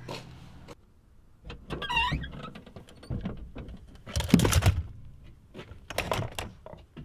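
Rifle being handled and laid down in a car trunk: scattered clicks and knocks, with a louder clatter about four seconds in. A short wavering squeak about two seconds in.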